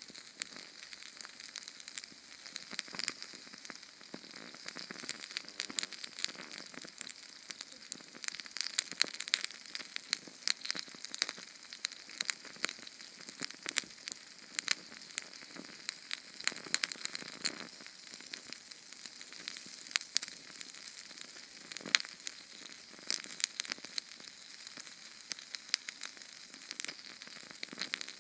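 Small Sterno canned-fuel flame crackling: a dense run of irregular sharp pops and ticks over a steady hiss.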